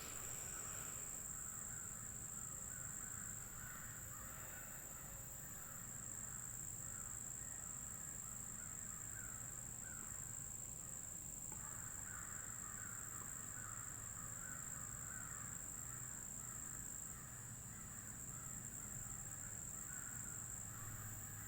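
Crows cawing over and over, many overlapping caws with a brief lull about halfway through.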